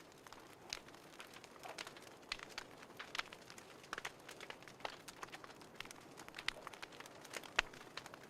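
Wood fire crackling with many short, irregular pops and snaps, the sharpest about seven and a half seconds in.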